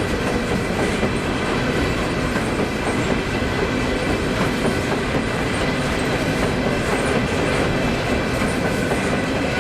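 Freight train rolling past, with a steady, even rumble of its steel wheels on the rails.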